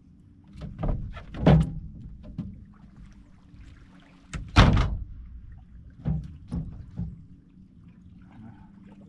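About half a dozen hollow thunks and knocks against a boat hull, the loudest about a second and a half in and near the middle, while a hard-pulling fish is fought from the boat.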